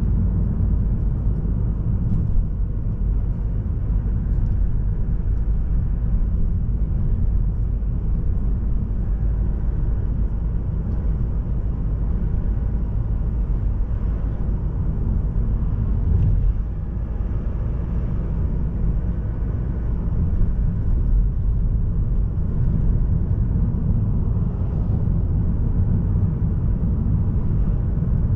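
Mazda3 sedan with the SKYACTIV-D 1.8 diesel driving along: a steady low rumble of road and engine noise, dipping slightly about two-thirds of the way through.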